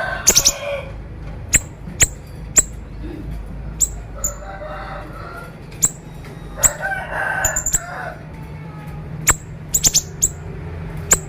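Siri-siri songbird calling in the sharp, crackling 'konslet' style: very short, high, snapping notes, some single and some in quick clusters, with a lower harsh chattering three times, around the start and again about four and seven seconds in, over a steady low hum.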